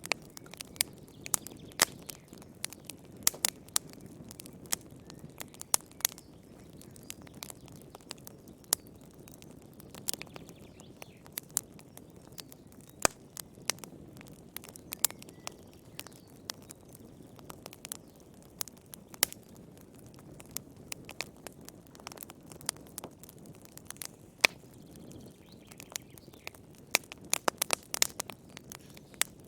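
Fireplace fire crackling: sharp, irregular pops and snaps over a soft, steady low rumble of burning, with a quick flurry of crackles near the end.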